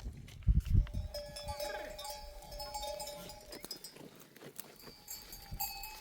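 Bells worn by a flock of sheep clanking and ringing irregularly as the animals move, with several held ringing tones. A few loud low thumps come about half a second in.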